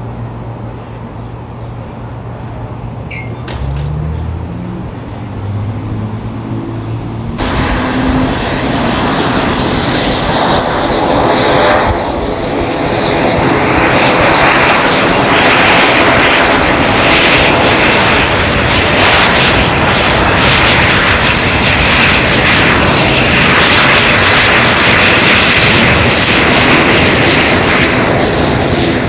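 Airplane engines, faint at first, then from about seven seconds in a loud, steady engine noise that builds up and holds.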